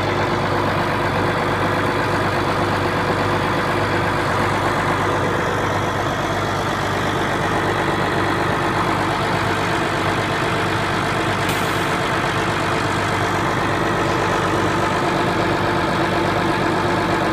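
Case IH MXM 190 tractor's diesel engine idling steadily just after a cold start, warming up.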